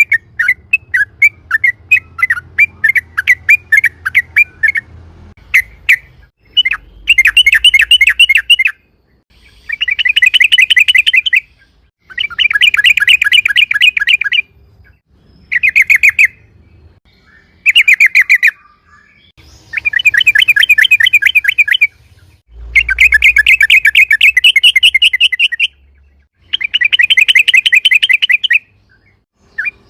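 Yellow-vented bulbul (trucukan) singing loud, fast rolling trills in bursts of about two seconds, separated by short pauses. The first few seconds are looser chattering notes.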